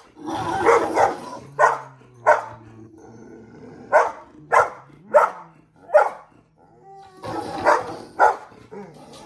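Dog barking in short, sharp barks, about nine in uneven groups with brief pauses between them.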